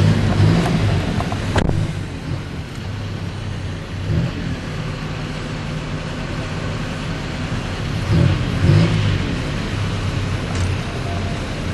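Car engine and road noise while driving: a steady low rumble that swells near the start and again about eight seconds in, with one sharp click about a second and a half in.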